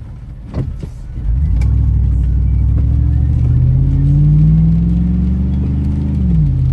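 Car engine pulling away, heard from inside the cabin. About a second in it grows louder, then climbs steadily in pitch for about five seconds and drops suddenly near the end as the transmission shifts up a gear.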